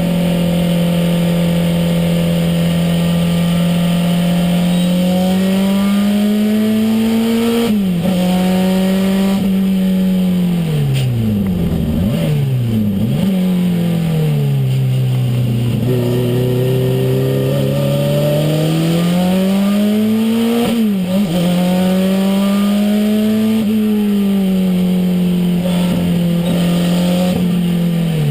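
Renault 5 Turbo's engine heard from inside the cabin while driven hard on track: its pitch climbs under acceleration, drops sharply at gear changes about eight seconds in and again around twenty-one seconds, and falls away twice as the car slows for corners.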